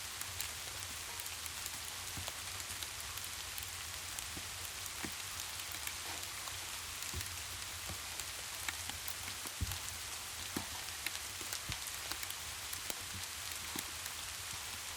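Steady rain falling, an even hiss with a low rumble beneath it and scattered sharp clicks of drops throughout.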